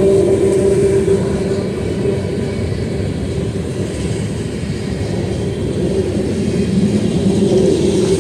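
Freight train of steel tank cars rolling past close by: a steady, loud rumble of wheels on rail with a low hum running through it, easing a little midway and building again near the end.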